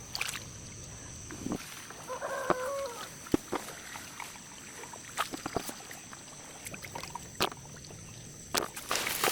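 A chicken calling once, about two seconds in, amid scattered short clicks and knocks.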